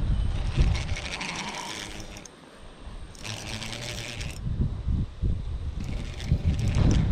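Fishing reel ratcheting in two runs of rapid clicks, each a second or so long, and a few shorter spurts near the end, while a big bass is fought on the line. A low wind rumble sits beneath it.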